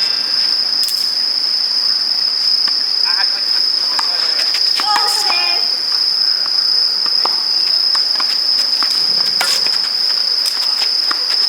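Steady high-pitched drone of insects, with sharp tennis ball hits now and then: a loud one about a second in and another near the 9-second mark.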